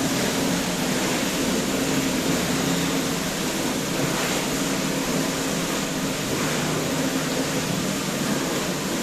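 Steady hiss with a faint low hum, even throughout, like a fan or air cooler running.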